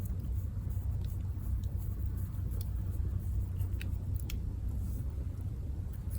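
Campfire crackling, with a few sharp pops scattered through, over a steady low rumble.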